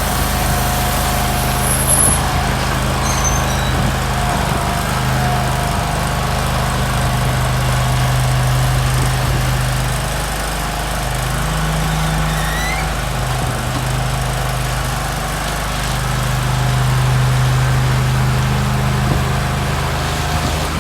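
Rayco stump grinder's engine running steadily, its note dipping and coming back up a couple of times, with a thin steady whine over it.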